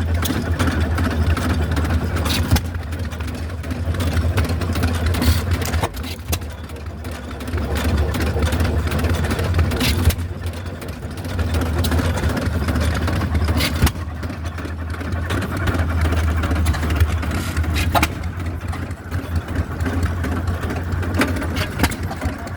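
Hit-and-miss stationary gas engines running, with a steady low drone that swells and fades every few seconds and a few sharp clicks.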